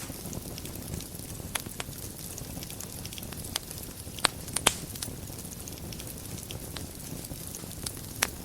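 Wood fire burning in a fireplace, with a low steady rumble of flames and scattered sharp crackles and pops; the loudest pops come in a quick cluster about halfway through, and another comes near the end.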